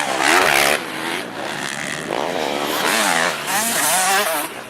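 Motocross bikes racing, their engines revving up and down, with louder stretches as bikes pass close, near the start and again about three and a half seconds in.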